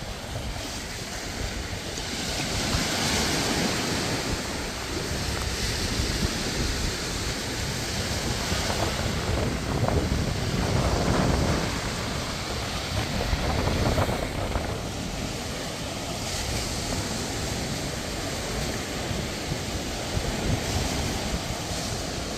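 Sea surf breaking and washing up on a beach, swelling louder a few times, with wind on the microphone.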